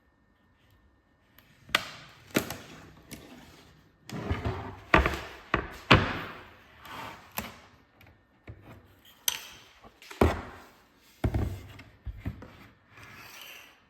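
Irregular knocks, taps and rubbing or scraping sounds of objects being handled and set down on a hard surface, some sharp and loud.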